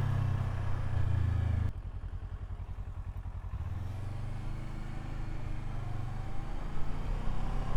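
Kawasaki Versys 650's parallel-twin engine running while riding, with wind hiss. About two seconds in the sound drops suddenly to a quieter, uneven low putter, then builds again with a slowly rising tone.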